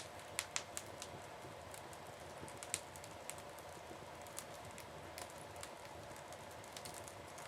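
Wood fire crackling in a fireplace: faint, irregular sharp pops and snaps over a steady low hiss.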